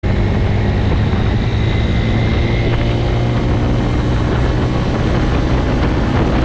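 Engines running with a steady low drone.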